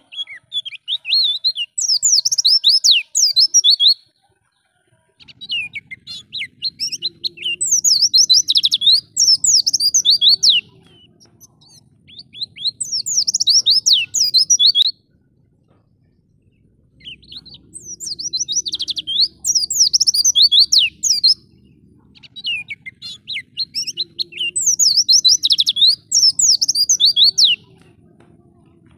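Pleci (white-eye) singing: fast, high twittering and warbling song in bursts of several seconds, broken by short pauses, about six phrases in all.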